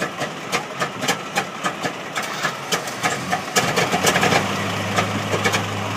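The engine of a roughly 100-year-old car running at a slow idle, firing in even beats about three times a second; about three and a half seconds in it gets louder and steadier, with a low hum, as the engine speeds up.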